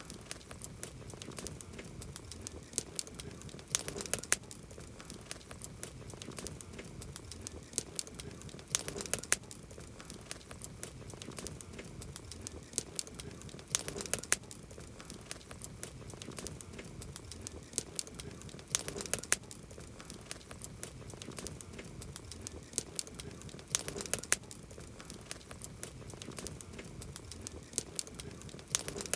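Campfire of burning wood crackling, with many sharp pops and snaps over a low hiss of flame. Clusters of louder pops come about every five seconds.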